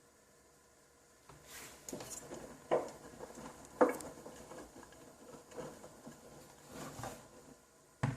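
Handling noises: soft rustling with several light knocks, then a louder double knock at the very end.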